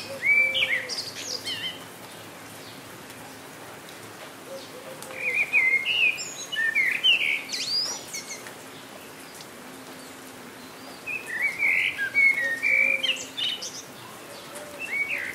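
A songbird singing bouts of quick chirps and warbled notes, one phrase every five or six seconds, over the steady hiss of rain.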